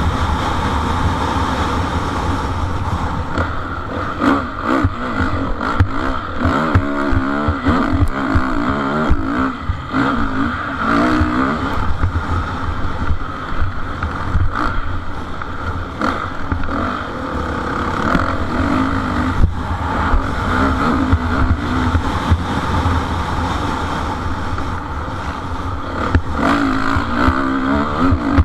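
Motocross motorcycles racing, their engines revving up and falling back again and again as they go through the track.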